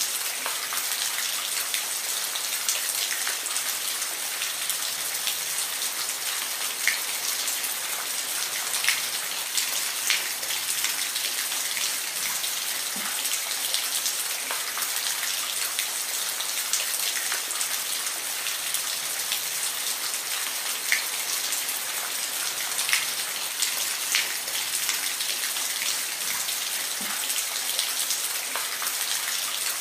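Steady rain with a constant hiss and scattered individual drops tapping on a surface.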